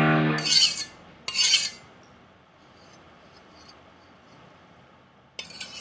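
Short rasping strokes of a steel knife edge drawn across an abrasive to grind off a rolled edge: two strokes in the first second and a half, then a pause, then another stroke near the end. A loud steady hum stops under a second in.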